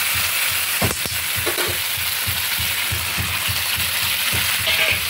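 Onion-garlic-ginger masala sizzling in hot oil in a kadhai while a spoon stirs it, with short low knocks. Just before the end, chopped tomatoes are tipped in and the sizzle briefly gets louder.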